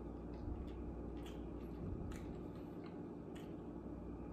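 Two people chewing banana nut muffins: faint mouth clicks and smacks at irregular intervals over a low steady room hum.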